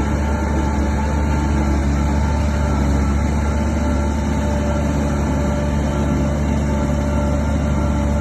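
Shantui DH17 bulldozer's diesel engine running steadily, a deep drone with a few steady whining tones above it.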